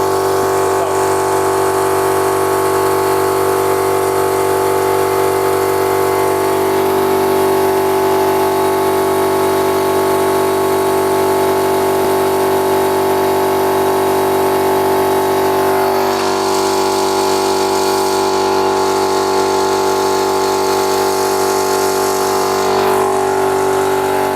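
Stabilo 200/8/24 oil-lubricated piston air compressor running steadily under load as it pumps its 24-litre tank up toward the 8-bar cut-out. It makes a loud, even drone made of many steady tones, which shift slightly about two thirds of the way through.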